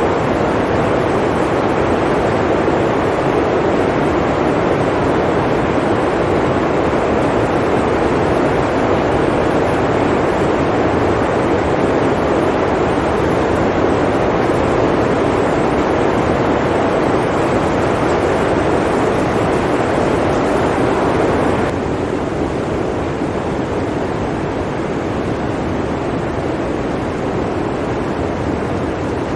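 Steady blizzard wind, a dense unbroken rushing noise. It drops a little in level about three quarters of the way through.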